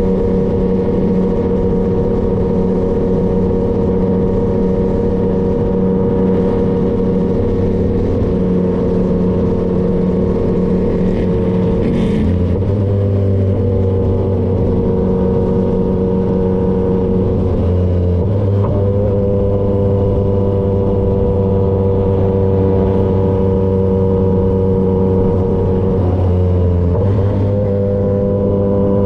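Yamaha XSR900's three-cylinder engine through an SC-Project CRT exhaust, running at a steady cruise while being ridden. The note holds steady and shifts slightly in pitch a few times.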